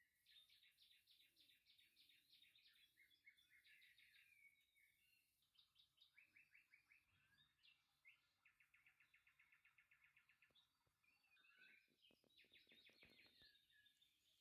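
Faint birdsong: a small bird repeating quick high chirps and fast trills. A few faint clicks come near the end.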